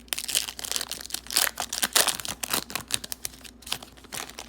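Crinkling and tearing of a trading card pack's wrapper as it is torn open, a dense crackle with sharp clicks, loudest about one and a half to two seconds in.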